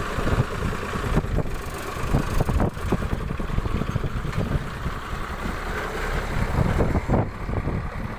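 Tata LPT 2515 truck's diesel engine running, a steady low rumble, with wind buffeting the microphone and a few knocks.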